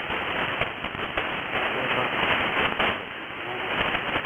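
Static on an AM ham-band receiver: steady hiss with frequent crackles and pops from lightning static crashes, heard through the radio's narrow audio with no treble above it.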